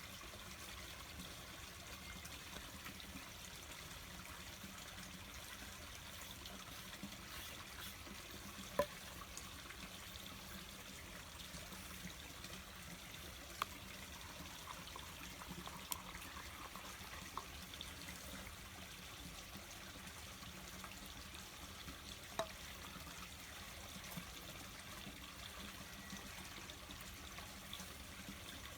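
Water trickling steadily, like a small stream, with a few faint sharp clicks scattered through it.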